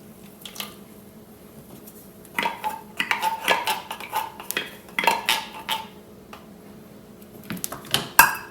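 A metal spoon clinking and scraping against metal cookware in a quick run of strokes for a few seconds, then a few more clinks near the end.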